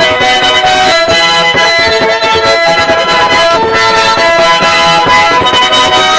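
Instrumental Mari folk tune played by a folk ensemble: a melody of quickly changing notes over steady held tones, without a break.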